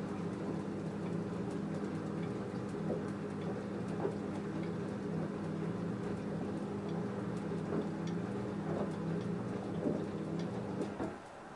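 LG F10A8HDS5 front-loading washing machine tumbling a full load in its wash phase: a steady motor hum with water sloshing and the clothes dropping in the drum. The drum stops turning near the end and the hum cuts off.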